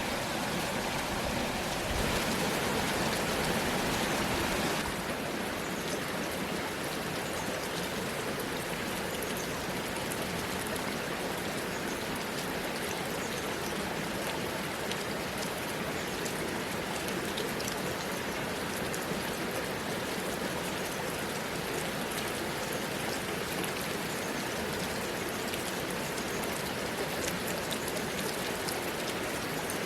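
Heavy rain falling steadily, with the patter of individual drops ticking through the hiss. It is a little louder for the first few seconds, easing slightly about five seconds in.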